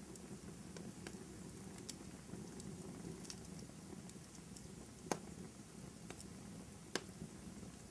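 Wood fire burning in a fireplace: a low steady rumble of flames with scattered crackles and pops. Two sharp pops stand out, one a little past the middle and one near the end.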